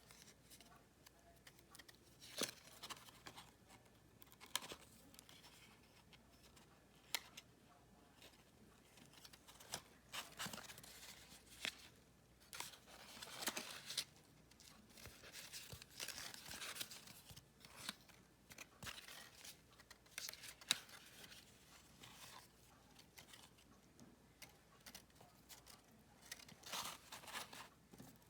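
Paper and cardstock pieces being handled, cut and stuck down during card making: scattered small clicks and taps with short rustling and scraping noises.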